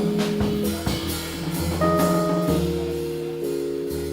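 Live band music: sustained piano chords and a bass line under regular drum-kit and cymbal strokes.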